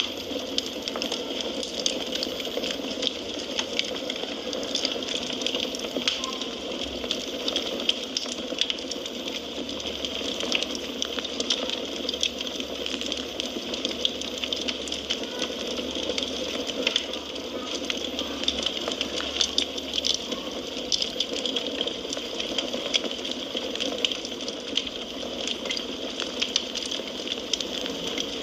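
Wood fire crackling in a fireplace: a steady hiss under frequent small snaps and pops.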